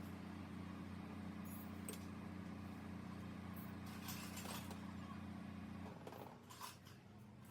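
A steady low machine hum that changes pitch about six seconds in, with a few light metallic clinks scattered through it.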